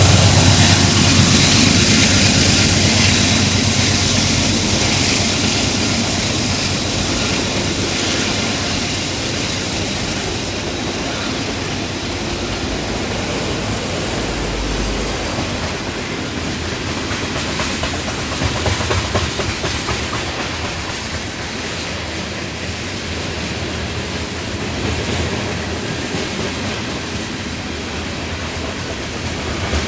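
Train passing at close range, its cars clattering over the rail joints in a steady rumble. It is loudest at the start, as the heavy engine sound of the locomotives passes, then settles to the even noise of the cars rolling by.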